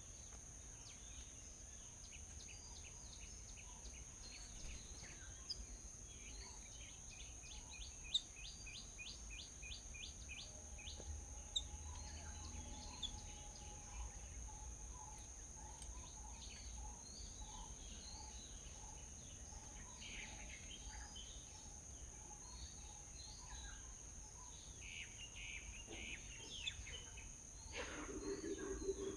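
Small birds chirping and calling, with a fast trill of about eight notes a second a few seconds in and a run of lower, evenly spaced notes around the middle, over a steady high-pitched hum. Near the end comes a louder, lower-pitched call.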